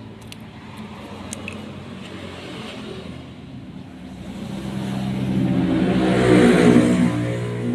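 Electric power saw motor running, growing louder with rising hiss from about four seconds in.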